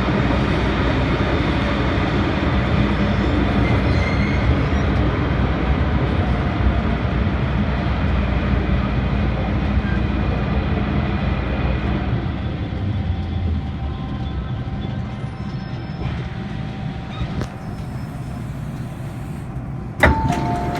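MTR M-train running through the tunnel with a dense, loud rumble that eases off from about halfway as the train slows. Near the end a sharp clunk is followed by short steady tones.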